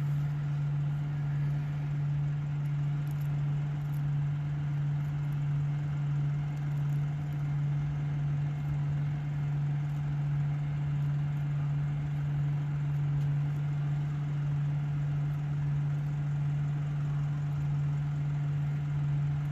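Vehicle engine idling steadily: a constant low hum that holds the same pitch and level throughout.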